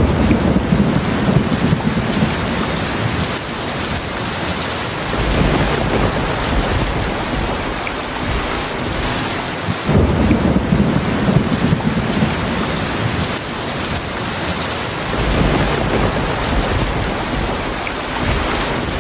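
Heavy rain falling steadily, with low rolls of thunder that swell and fade again and again: at the start, around five seconds in, around ten seconds and around fifteen seconds.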